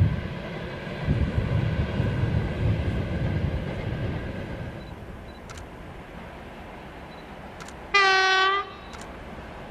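Train rumbling on the rails, fading away over the first few seconds. About eight seconds in, a single short train horn blast of about half a second, dropping slightly in pitch as it ends.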